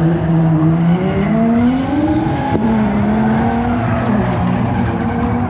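Drift cars running on the track, their engines revving up and down in pitch.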